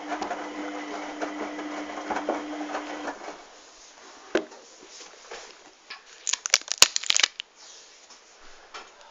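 Hoover washing machine's drum motor running with a steady hum during a wash, stopping about three seconds in. Later there is a single knock, then a brief cluster of sharp clicks.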